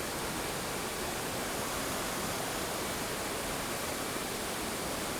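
Mountain creek water rushing over rocks: a steady, even rush without change.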